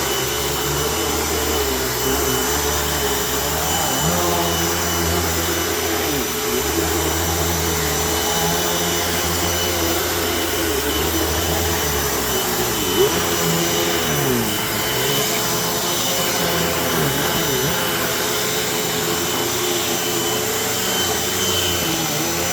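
Vacuum cleaner running steadily over thick shag carpet: a constant motor whine whose pitch dips and recovers now and then as the load on it changes. There is a single brief knock about halfway through.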